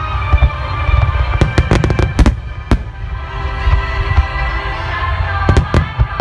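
Large aerial fireworks bursting as sharp bangs, a cluster of several about a second and a half in, another near the end, over a continuous low rumble, with music playing throughout.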